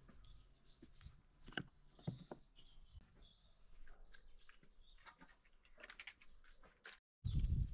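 Faint outdoor ambience with a few short bird chirps and scattered light knocks and clicks.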